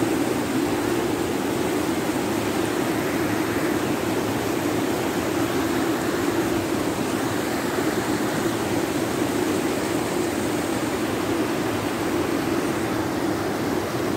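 Rushing floodwater: a steady, loud, even noise that holds without a break.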